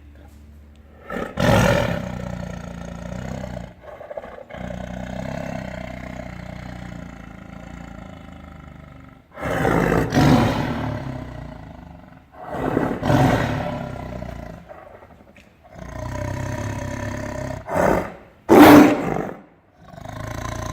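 A tiger roaring repeatedly: about five loud roars a few seconds apart, with lower rumbling growls between them.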